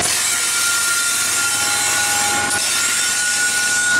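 Florida East Coast Railway freight train led by GE ES44C4 locomotive 814 passing close by: loud, steady rolling and engine noise, with a thin, steady high squeal over it and a lower squeal for about a second in the middle.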